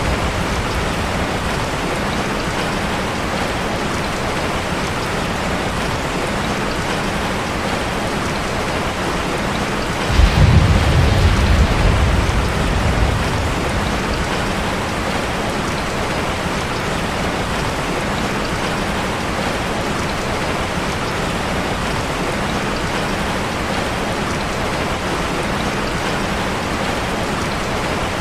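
Steady, heavy rain drumming on a metal roof. About ten seconds in, a low rumble of thunder starts suddenly and fades over roughly three seconds.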